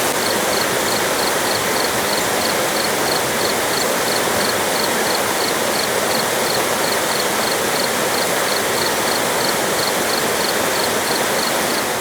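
Fast-flowing mountain creek rushing steadily over rocks, with a faint high chirp repeating about three times a second above the water.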